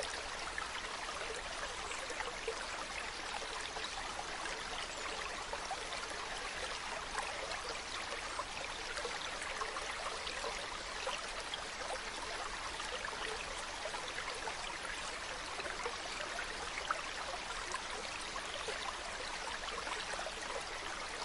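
Mountain stream running over rocks: a steady babble of flowing water with small splashes and trickles.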